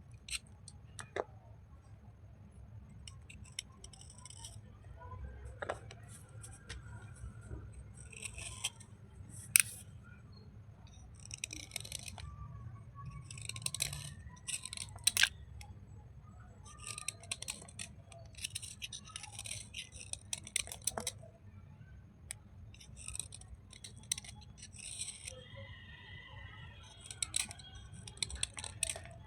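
Wet slate pencil and clay bars being rubbed and crumbled by hand: gritty, crunchy scraping in short repeated strokes, with an occasional sharp click.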